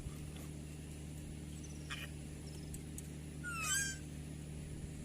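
An African grey parrot gives one brief whistled call about three and a half seconds in: a quick run of gliding notes. It sounds over a low steady hum.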